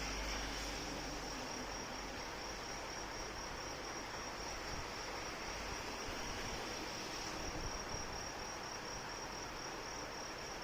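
Steady rain hissing, with insects, crickets by the sound of the tags, chirping in an even, high-pitched pulse over it.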